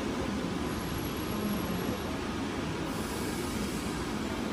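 Train running on the line: a steady rumble of wheels and rail with a low hum, no sudden changes.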